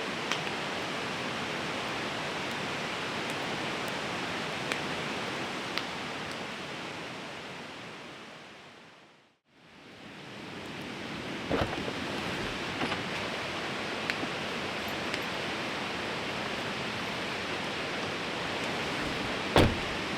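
Steady rush of a river with the sharp pops and crackles of a wood campfire. The sound fades away to near silence about nine seconds in and fades back up. A louder pop comes near the end.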